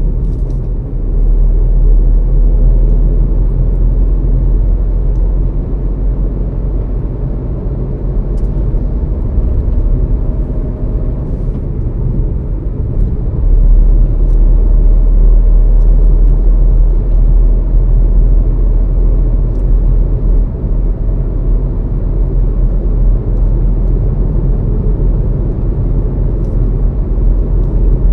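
A car being driven: a steady, loud low rumble of engine and road noise, which swells louder about a second in and again near the middle.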